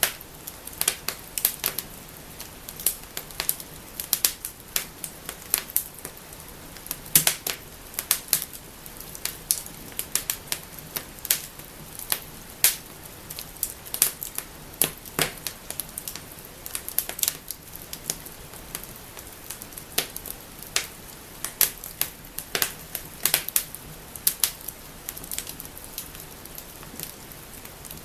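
Wood fire burning in a fireplace, crackling and snapping with many sharp, irregular pops over a low steady hiss.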